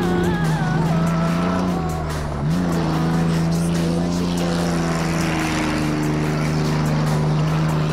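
Ford Explorer's engine running under load as the truck slides sideways on dirt, mixed with background music that has steady held notes.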